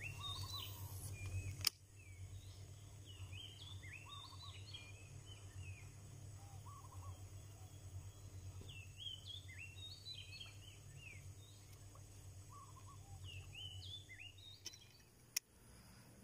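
Birds calling outdoors in short, repeated chirps and whistles over faint background noise. A low rumble ends with a click in the first couple of seconds, and there is a sharp click near the end.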